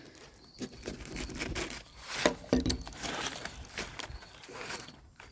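Scattered rubbing, rustling and small clicks of a fast-food burger and its wrapper being handled as a piece is pulled off, the strongest a little past two seconds in.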